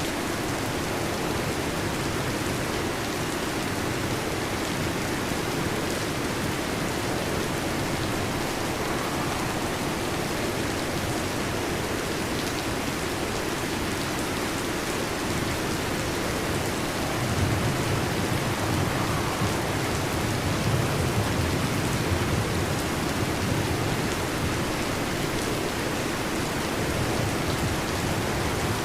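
Heavy rain falling in a steady hiss. Over it a low rumble of thunder swells for several seconds about two-thirds of the way through.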